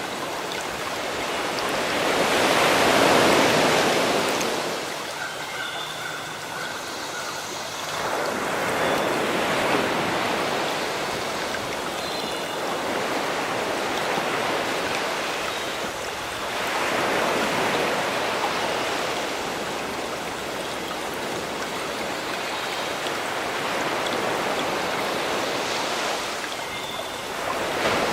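Sea waves washing ashore, swelling and falling back about every seven or eight seconds, with faint bird calls between the swells.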